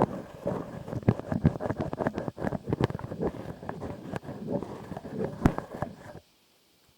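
Close-miked ASMR trigger sounds: rapid crackling, rustling and tapping right on the microphone, which stop abruptly about six seconds in.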